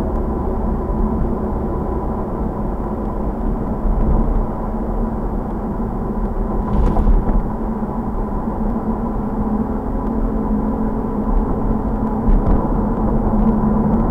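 Car on the road: steady engine and tyre noise picked up by the car-mounted camera, with a faint tick about halfway through.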